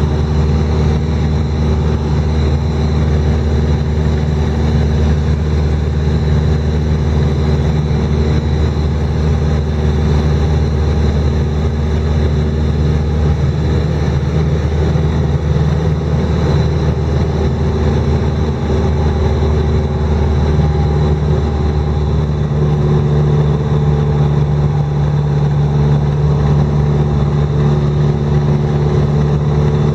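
An engine running steadily with a low, even hum, its pitch shifting slightly about 21 seconds in.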